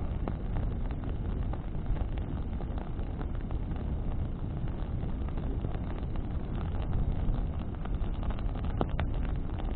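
Bonfire burning in the wind: a steady low rush of flame and wind with scattered crackles from burning wood, a few sharper pops about nine seconds in.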